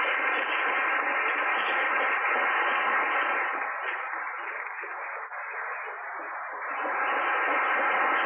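Audience applauding, easing off about halfway through and then swelling again.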